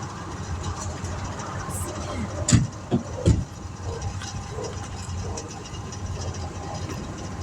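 A vehicle engine idling steadily, with two sharp knocks, the first about two and a half seconds in and the second under a second later.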